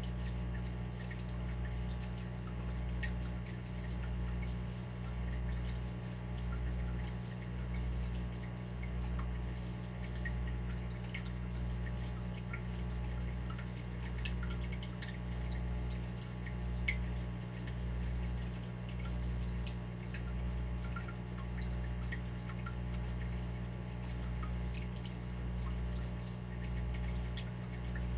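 Water dripping, with many small drops falling irregularly over a steady low hum that swells about once a second.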